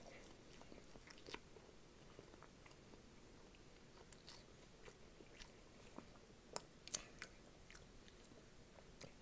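A person chewing a mouthful of sausage dog in a bun, close to the microphone: faint mouth clicks, with two sharper clicks about two-thirds of the way in.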